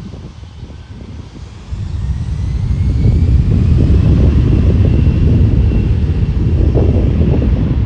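Airplane engines running loudly as a deep rumble. The rumble grows sharply about two seconds in, and a faint whine rises in pitch and then holds steady, as an aircraft powers up.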